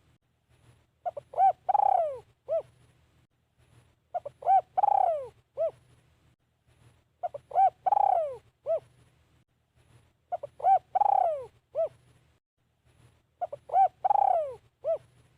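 Spotted dove cooing its song five times, about every three seconds: each phrase is a few short coos, a long falling coo, then one short closing note.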